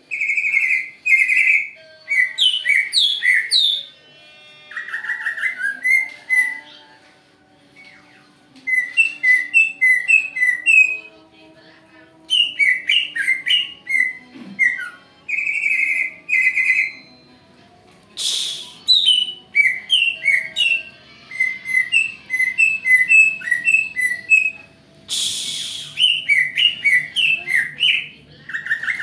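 Green leafbird (cucak ijo) singing: repeated phrases of quick, sharp chirping whistles lasting a second or two, separated by short pauses. Two brief harsh rasps come in the later half.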